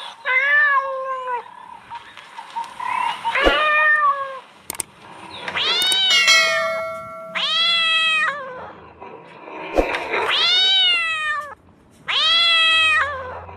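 Kittens meowing: about six separate drawn-out meows, each rising then falling in pitch, a second or two apart.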